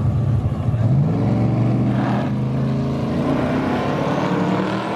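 Race car engines running loud at a drag strip, rising in pitch and pulling harder about a second in, as on a launch or hard acceleration.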